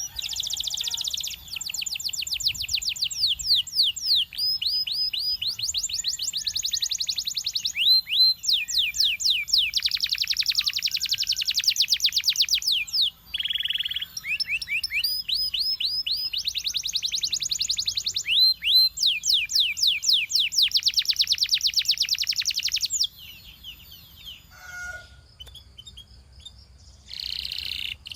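Canary singing long, fast trills of rapidly repeated high notes, with a brief break about halfway. The song stops about five seconds before the end, leaving a few faint notes, then starts again at the very end.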